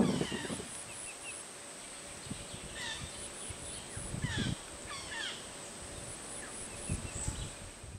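Birds calling: short chirps and quick descending whistles, one every second or so. Twice, about four and seven seconds in, low rustling munching from the Indian rhinoceros feeding in water hyacinth.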